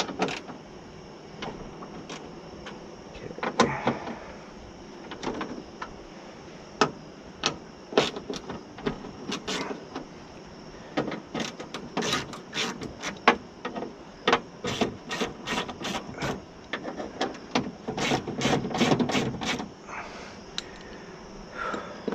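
Irregular clicks, knocks and rubbing of hand tools and metal parts as the window regulator and track are worked loose inside a car door, with a quicker run of clicks in the second half and a denser rattle near the end.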